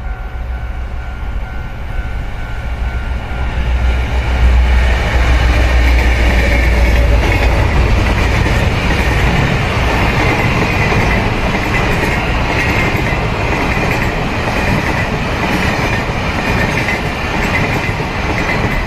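A freight train hauled by a diesel-electric locomotive passes close by. The locomotive's engine gives a deep rumble as it arrives, then the wagons roll past with a steady clattering of wheels on rail and a high metallic ringing from the wheels in the second half.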